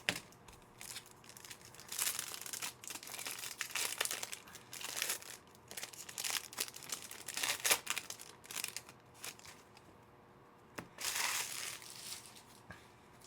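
Trading card pack wrappers being torn open and crinkled by hand, in irregular bursts of rustling with short pauses between.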